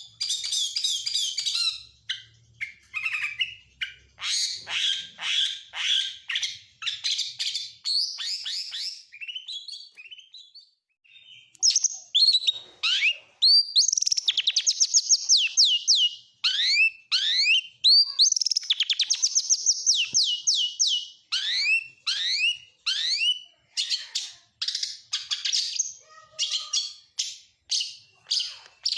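Oriental magpie-robin (kacer) singing a varied song packed with mimicked phrases of other birds, in bursts of chattering notes and fast runs of sharply falling whistles. The singing pauses briefly about ten seconds in, then resumes with long trills of repeated downslurred notes.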